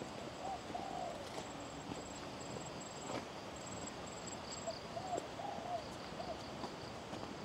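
A bird calling with short, low, arching notes, in two brief series: one about half a second in and another past the middle. Behind it, insects keep up a faint, high, pulsing buzz over a steady jungle hiss.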